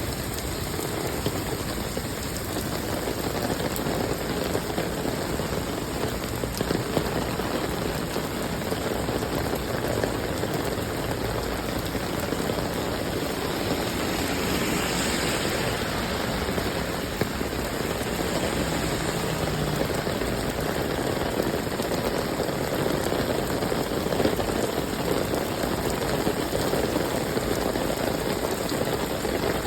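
Steady rainfall pattering on surfaces, an even rushing hiss with no letup and a slight swell about halfway through.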